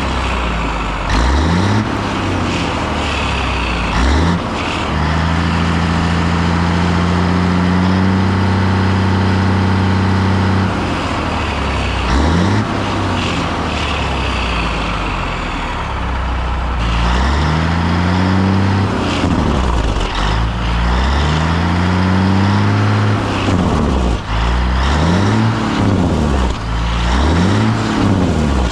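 Caterpillar diesel engine of a 1981 Peterbilt 359 semi truck being revved hard again and again, its pitch rising and falling with each blip. After a few short revs it is held at high revs for about five seconds, then the second half brings a run of quick revs.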